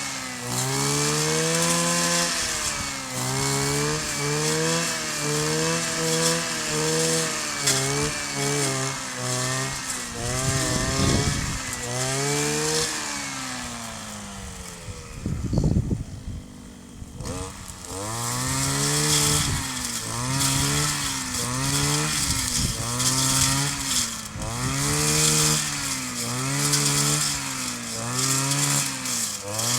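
Kioritz 260 brush cutter's small two-stroke engine running hard, its pitch dipping and recovering about once a second. About halfway through it drops briefly to a low idle, with a couple of dull thumps, then climbs back to speed and the same rhythm.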